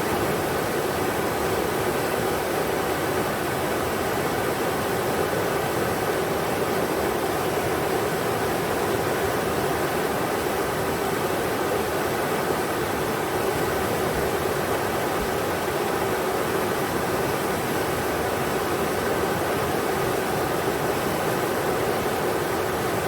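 Englishman River rushing over rocks: a steady, even roar of flowing water with no breaks or changes.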